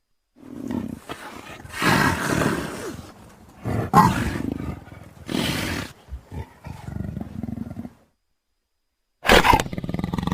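Leopard roaring and growling in a string of rough calls for about eight seconds, then a short pause and one more loud roar near the end.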